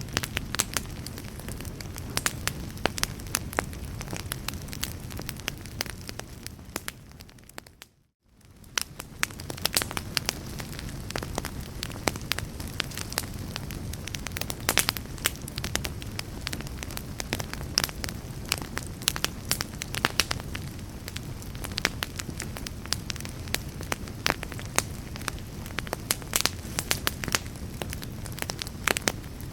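A burning fire crackling, with frequent sharp pops and snaps over a low steady rumble. About eight seconds in, the sound fades out to near silence and swells back up within a second.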